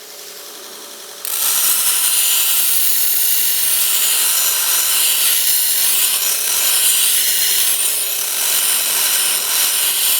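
Belt grinder motor running, then, about a second in, the steel railroad-spike blade is pressed onto the slack belt: a loud, steady abrasive grinding hiss as a rounded convex edge is ground up to the bevel.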